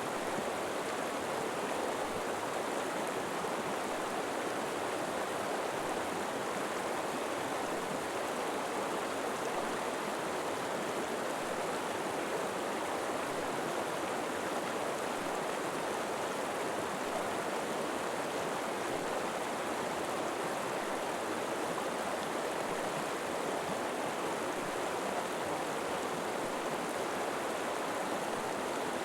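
River water flowing steadily, a continuous even rushing with no distinct splashes or other events.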